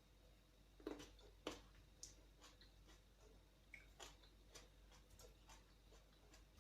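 Near silence with faint, irregular clicks and taps, the two clearest about a second and a second and a half in.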